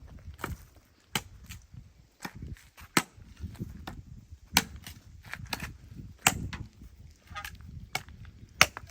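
Wood being chopped by hand with a blade: a string of sharp, irregularly spaced strikes into wood.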